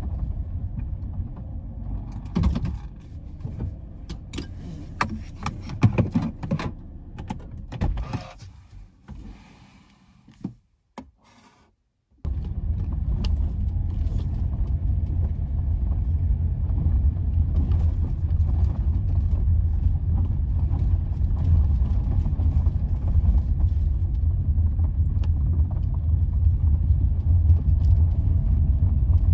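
Scattered knocks and clatter for several seconds, then a brief silence. About twelve seconds in, the steady low rumble of a car driving takes over, heard from inside the cabin.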